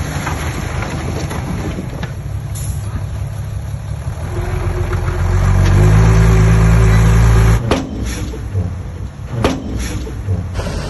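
Heavy diesel engine of the earthmoving machinery running, then revving hard under load from about four seconds in and dropping back suddenly near eight seconds. A few sharp knocks follow.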